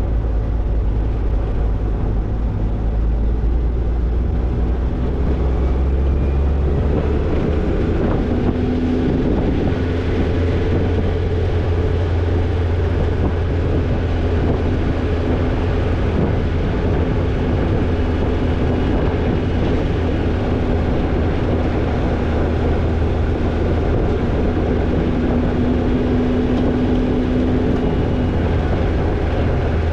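Toyota Tercel 4WD wagon's four-cylinder engine running steadily while the car drives a dirt trail, its low hum shifting up a little about seven seconds in.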